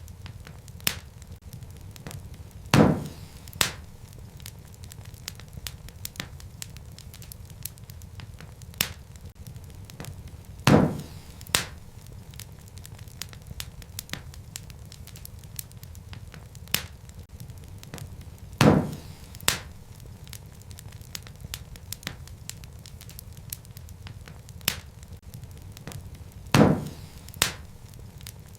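Wood fire crackling in a fireplace: a steady low rumble of flames with frequent small crackles. Four louder pops come about eight seconds apart, each followed by a smaller pop.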